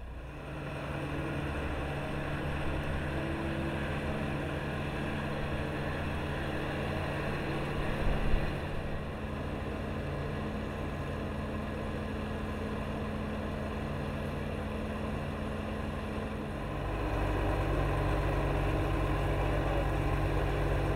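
An engine running steadily at an even speed, with a brief knock about eight seconds in. It grows louder and heavier in the low end about seventeen seconds in.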